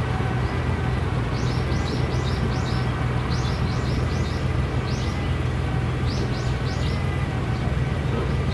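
Birds chirping in several quick runs of short, high, falling calls over a steady low hum and background noise.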